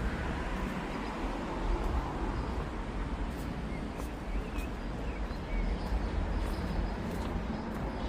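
City street ambience: a steady rumble of road traffic, with footsteps ticking about twice a second and a few faint bird chirps in the middle.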